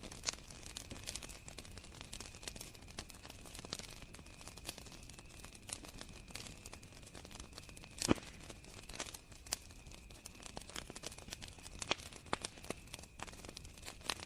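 Wood fire crackling with irregular snaps and pops, the loudest about eight seconds in, over a steady high trill of crickets.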